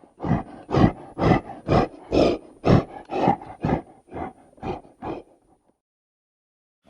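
Dinosaur roar sound effect: a string of about a dozen short roaring grunts, about two a second, growing weaker and stopping after about five seconds.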